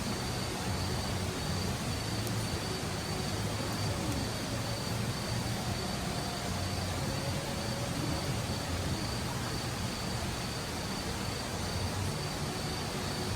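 Steady outdoor ambience: an insect's continuous high, even trill over a low, steady rumble.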